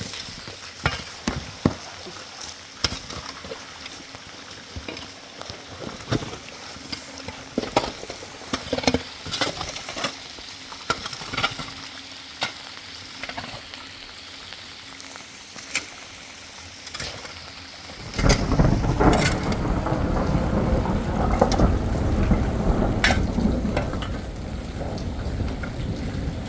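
Rain hissing with scattered drops tapping close by. About 18 seconds in, it suddenly turns into a much louder, heavy downpour with a deep low rumble.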